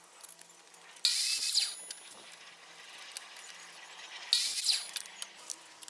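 A small handheld power tool run in two short bursts, about a second in and again about three seconds later, with a whining edge to each burst.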